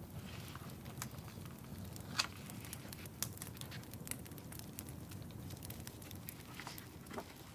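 Wood fire crackling in a fireplace: scattered pops and snaps over a low, steady rumble, with one louder pop about two seconds in.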